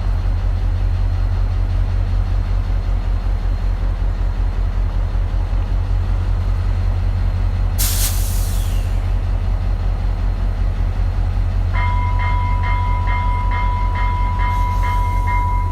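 F40PH-2 diesel locomotive's EMD two-stroke V16 running at idle with a steady low throb. About eight seconds in there is a sharp burst of air hiss, typical of the air brakes releasing. In the last four seconds an electronic warning bell starts ringing, about two and a half rings a second.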